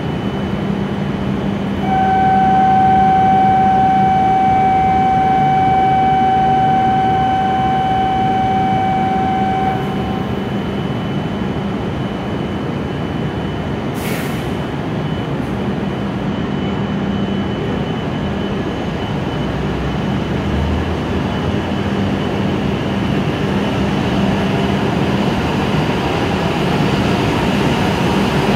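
E7-series Shinkansen standing at the platform with a steady hum. About two seconds in, a steady electronic departure tone sounds for about eight seconds, then stops. After a brief click and a low thud, the train's running noise slowly grows near the end as it starts to pull out.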